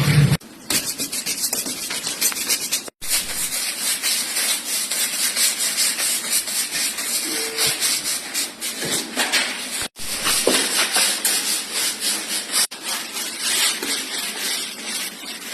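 Hand trowel scraping and smoothing decorative plaster on a wall in quick repeated strokes. The sound breaks off sharply for a moment three times.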